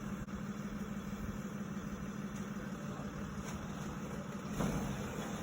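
Snowcat engine idling steadily with a low hum, getting a little louder about four and a half seconds in.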